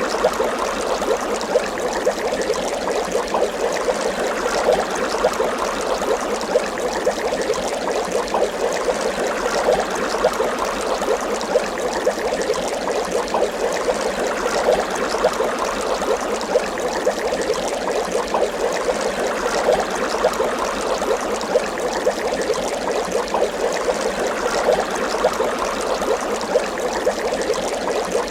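Water bubbling continuously: a steady, dense stream of small bubble pops and gurgles.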